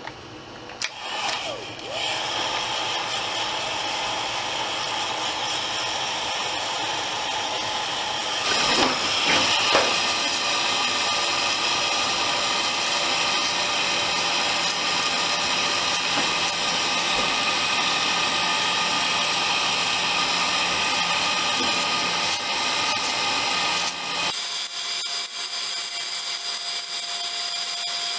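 Heat gun running steadily, its fan blowing with a steady whine, being used to melt stringing off a 3D-printed plastic part. It starts about two seconds in and gets a little louder about eight seconds in, and the deeper part of the sound cuts out suddenly near the end.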